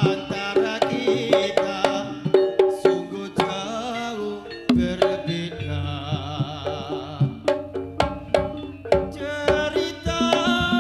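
Live Javanese jaranan-style ensemble music: rapid hand-drum (kendang) strokes over ringing metallophone notes and a wavering melody line, thinning out briefly midway before the drumming picks up again.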